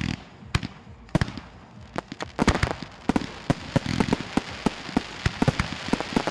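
Fireworks and firecrackers going off: a rapid series of sharp bangs and cracks that thickens into a dense, continuous crackle after about two seconds.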